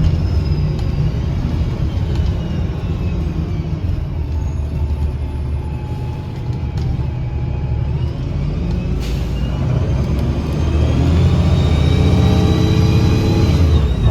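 2009 Gillig BRT 40-foot diesel bus with a Voith transmission running under way. Engine and driveline rumble at first, with tones falling as the bus eases off. From about ten seconds in it gets louder as the bus accelerates, and a sharp whistling whine rises in pitch over the engine.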